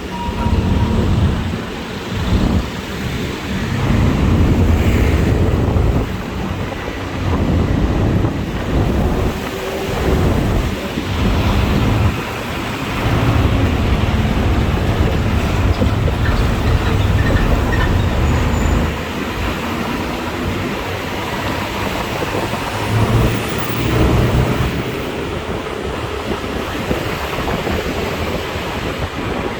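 Motorbike ride: engine and road noise under wind buffeting the microphone, a loud low rumble that surges and dips every second or two.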